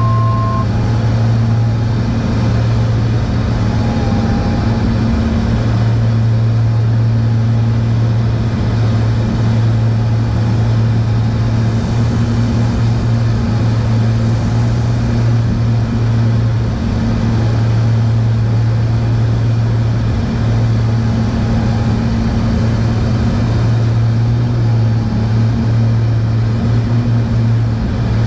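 Steady drone of a Cessna T310R's twin turbocharged piston engines and propellers heard from inside the cabin, a loud, even low hum.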